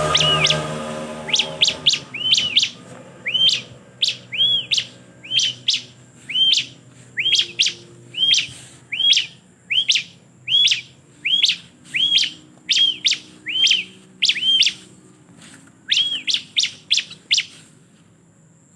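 Bar-winged prinia (ciblek) calling: a long series of sharp, arching notes, about one to two a second, with quicker flurries near the start and again near the end before it stops.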